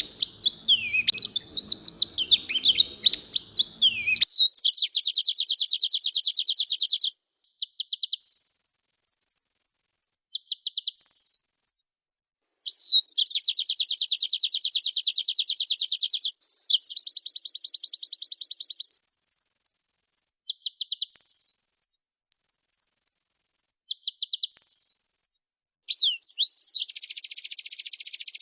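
White-eye (pleci) singing: a few seconds of varied twittering warbles, then a run of long, very fast buzzing trills, some very high, broken by short pauses.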